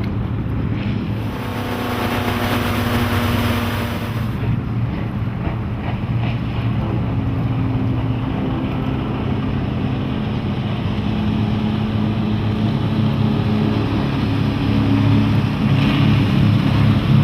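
Twin Volvo Penta 5.7 GSi fuel-injected V8 sterndrive engines running under way: a steady engine drone with wind and water rush. There is a burst of hiss about a second in that lasts a few seconds, and the engine grows louder toward the end.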